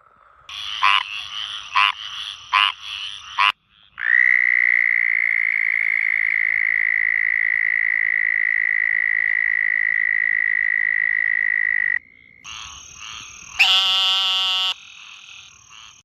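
Frogs calling: about four short croaks, then one long steady trill lasting about eight seconds that cuts off suddenly, then a few more calls near the end.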